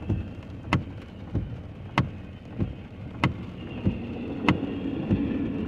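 Car windshield wipers sweeping back and forth in the rain: a sharp tick about every 1.2 seconds with a softer thump between, over the car's steady running rumble.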